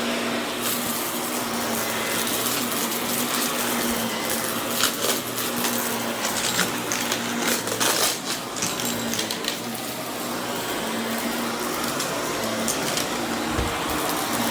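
Vacuum cleaner running steadily with a low motor hum, crackling with clicks as it sucks up grit and debris.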